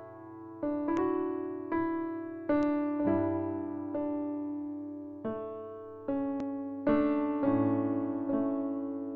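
Background music: slow electric piano chords, each struck and left to die away, about one a second.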